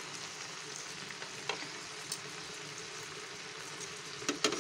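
Mutton kofta patties shallow-frying in hot oil in a nonstick pan: a steady sizzle with fine crackling, the oil foaming as moisture cooks out of the meat. A couple of sharp clicks come near the end.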